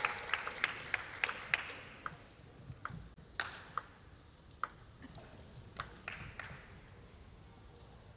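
Rhythmic crowd clapping fading out over the first two seconds, then a celluloid-plastic table tennis ball giving about eight separate sharp pings at irregular intervals as it strikes the table and bat.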